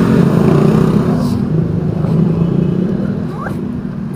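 Motor vehicle engine running with a low hum amid street traffic noise, loud at first and fading over the last couple of seconds.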